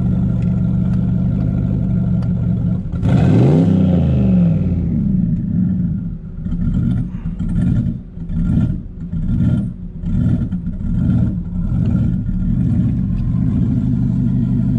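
Turbocharged LS V8 of a Chevy Silverado idling, revved up and back down once about three seconds in, then blipped in a quick rhythm of about one pulse a second for several seconds before settling back to a steady idle.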